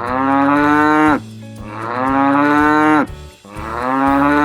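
Cow mooing three times in a row, each moo a long call of about a second and a half with short pauses between.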